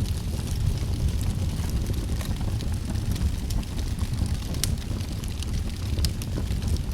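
Fire burning in a fireplace: a steady low rumble of the flames with scattered sharp crackles and pops, two louder pops about two-thirds in and near the end.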